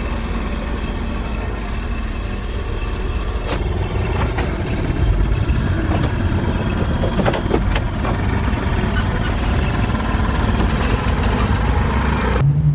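An engine running steadily at idle, with a few light knocks and clicks over it.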